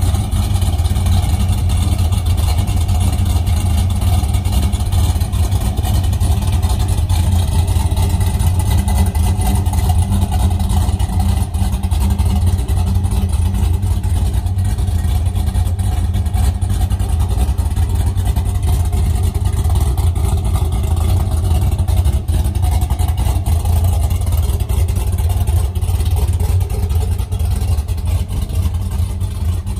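Steady low rumble of vehicle engine noise.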